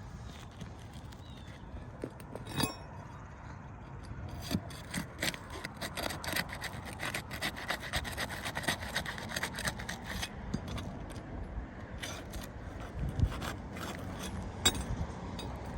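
Asphalt ridge cap shingles being scraped and pried loose from the tar line they are stuck to: a dense run of quick scratchy scrapes and clicks from about four to ten seconds in, then a few single sharper knocks.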